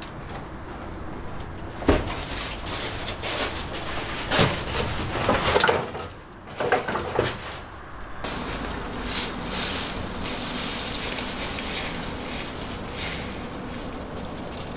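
Rustling and handling noises with a few sharp knocks, loudest about 2 and 4.5 seconds in, then a steadier scraping and rustling.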